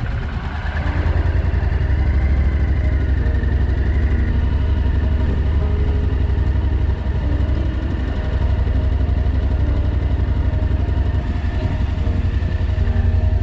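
Motorcycle engine running steadily at low revs, with a brief dip about seven seconds in.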